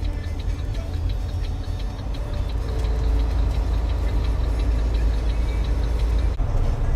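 Truck driving, a steady low engine and road rumble that grows louder about two and a half seconds in, with a regular fast ticking over it.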